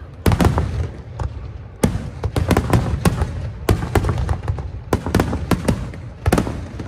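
Fireworks display: shells bursting with sharp bangs in quick clusters every second or so, over a continuous low rumble of echoing detonations.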